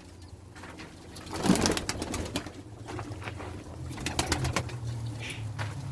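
Domestic pigeons cooing, a low steady murmur that grows from about halfway, with scattered sharp clicks and taps throughout.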